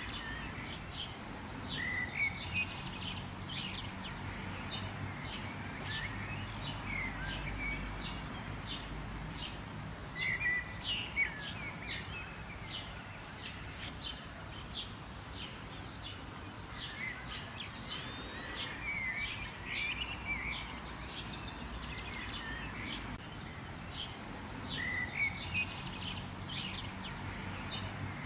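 Birds chirping: a steady run of short, high chirps with occasional lower, curving warbled notes, over a low, steady background rumble.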